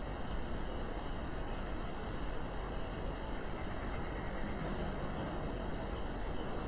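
Rural outdoor ambience: a steady, even rushing background with a few faint, short, high bird chirps, about a second in, near the middle and near the end.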